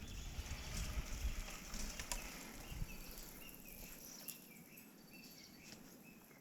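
A bird giving faint, short chirps repeated several times in the second half, over a low rumble that fades over the first few seconds.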